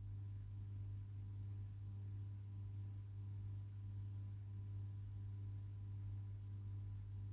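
A steady low hum with a few faint steady tones above it, unchanging throughout.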